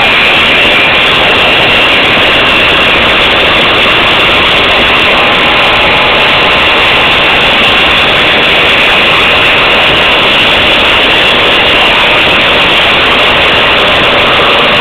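Motorcycle engines running loud and steady, with no clear revs rising or falling, heavily distorted on the recording.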